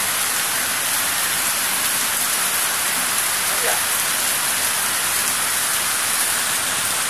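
Rain falling steadily on banana leaves and garden trees, an even hiss with no breaks.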